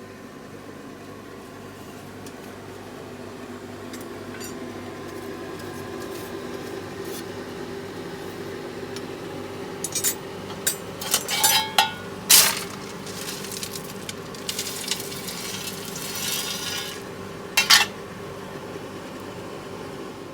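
Metal clinks and scraping as a steel bar and smithing tools are handled at a forge fire: a quick cluster of clanks about halfway through, a scrape, then two more clinks near the end. A steady mechanical hum runs underneath and grows slightly louder.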